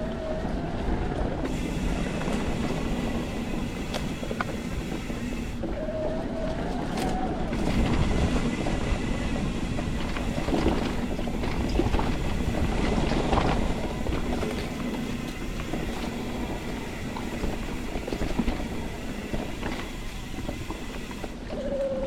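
Mountain bike riding a rough forest trail: tyres rolling over dirt and roots, with constant clattering and rattling from the bike over a steady low rumble.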